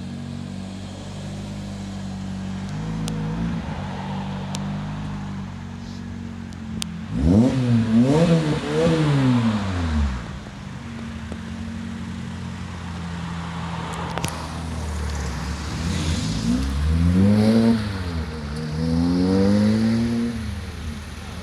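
Lotus Exige engine idling, then revved in a quick series of blips about seven seconds in that drop back to idle. It is revved again several times near the end.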